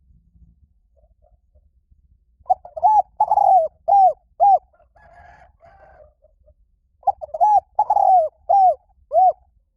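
Spotted dove cooing: two phrases of about five short arched coos each, a few seconds apart.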